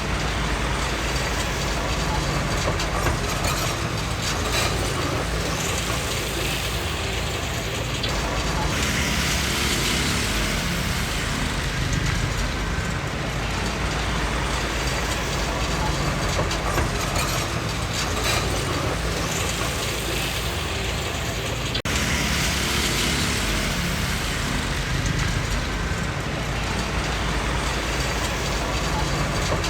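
Komatsu D20P crawler bulldozer working, its diesel engine running steadily under the clank and rattle of its steel tracks. The higher clatter swells twice along the way.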